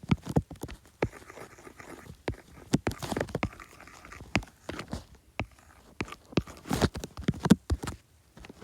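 Irregular light taps and clicks, with short scratchy strokes in between, from hands working at a drawing device while animation frames are drawn.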